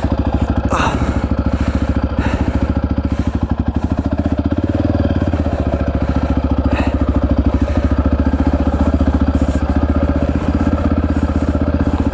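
Honda XR650R single-cylinder four-stroke dirt bike engine running steadily at low revs: an even, rapid train of exhaust beats.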